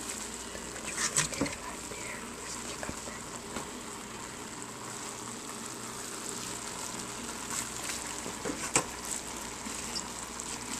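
Ground beef and spinach sizzling gently in a frying pan, a steady low hiss with a few scattered clicks. Near the end a spatula stirs the mixture.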